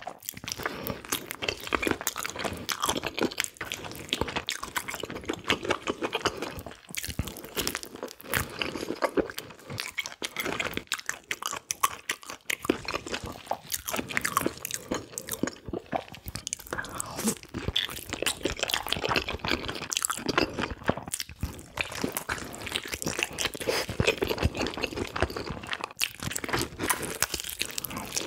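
Close-miked eating sounds of spicy mini pig's trotters (bul-jokbal) being chewed, a dense steady run of small clicks and crunches.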